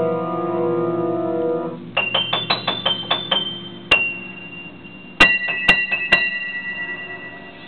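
Solo piano: a held low chord for the first couple of seconds, then a quick run of high single notes, a lone high note, and three more high notes that ring and fade.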